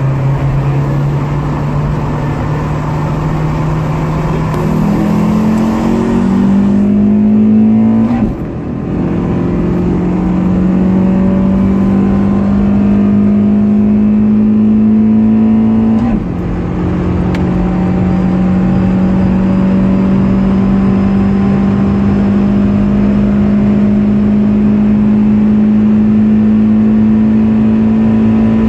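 Car engine heard from inside the cabin under hard acceleration in a rolling race. The revs jump about five seconds in, then the pitch climbs steadily through each gear, with upshifts about 8 and 16 seconds in where the sound briefly dips and the pitch falls.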